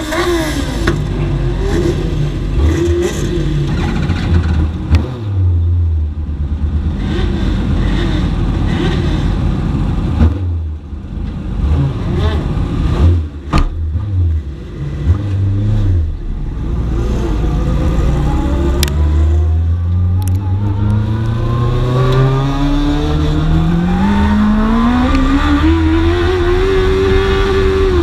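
Dwarf race car's motorcycle engine heard from on board, at low revs with short throttle blips and lifts. About two-thirds of the way in it pulls through one long steady climb in revs, then backs off just before the end.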